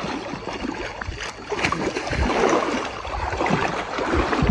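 Elephants playing in water: water sloshing and splashing with irregular low thuds, getting louder about a second and a half in.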